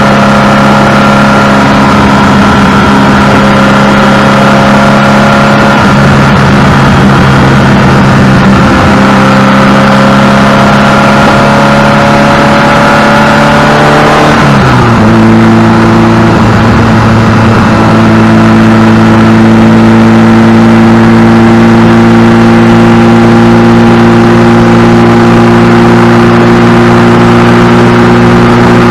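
Ferrari 308 GTS Quattrovalvole's 2.9-litre four-valve V8 running while the car is driven, heard close up from the engine cover. The engine note climbs slowly, drops sharply about halfway through, then holds steady.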